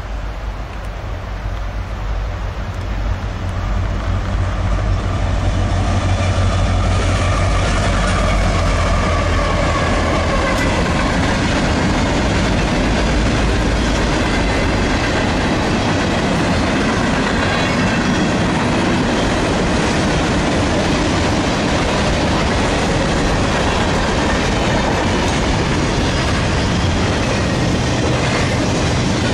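Southbound Union Pacific diesel freight train passing close by. It gets louder over the first six seconds or so as the locomotives come up and go by, then settles into the steady rolling noise of the freight cars on the rails.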